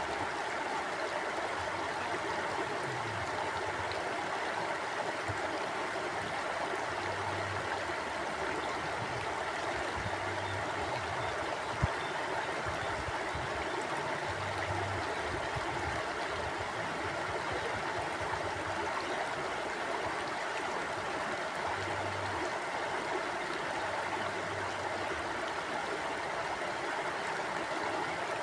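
Mountain river flowing with a steady rush of water, with one sharp click about twelve seconds in.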